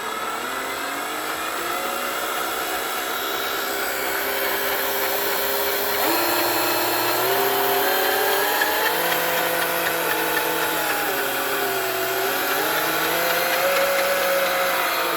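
Brushed electric motor of an RC truck running, with a whine that rises and falls several times as the throttle is varied. It sounds pretty good, with no sign of trouble.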